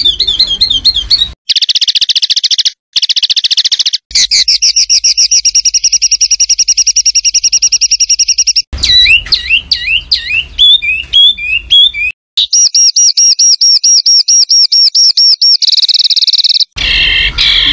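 Loud songbird calls in about half a dozen spliced segments, each breaking off abruptly: fast repeated high notes, rapid trills and swooping whistled phrases. This is a masteran tutor recording of harsh, dense 'tembakan' bursts, used to teach song to competition songbirds.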